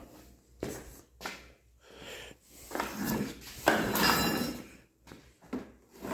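Clutter being shifted around a workshop: a few sharp knocks, then a longer scraping, rattling stretch with some metallic ringing, then more knocks.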